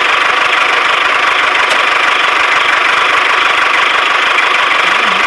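Small electric hobby motor, like the one that drives a DIY model tractor, running steadily at a constant speed with an even buzz.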